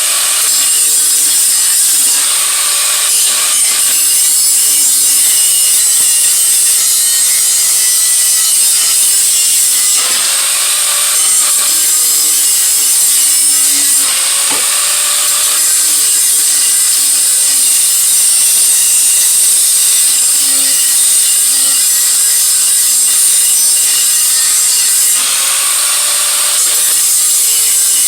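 Power grinder grinding a steel exhaust head pipe: a loud, steady grinding, the motor's pitch rising and falling a little as it works.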